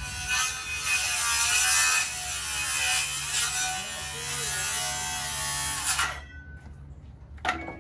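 Electric power saw running and cutting through framing lumber, a high buzz that stops abruptly about six seconds in, followed by a single sharp click near the end.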